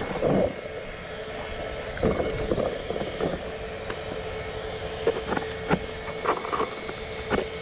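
Scattered sharp clicks and knocks of an ARRMA Talion 6s RC truck being handled and checked over a steady hum. The truck has lost a wheel bearing.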